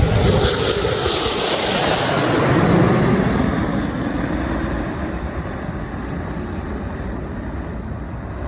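Jet aircraft passing by at an air show: a loud rushing engine noise whose pitch slides downward as it goes past, loudest about three seconds in, then slowly fading away.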